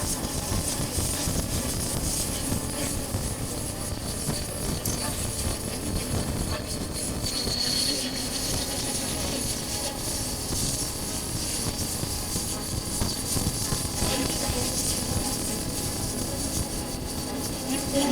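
Honda CB400X's parallel-twin engine running at road speed under steady wind and road noise on a chest-mounted camera's microphone.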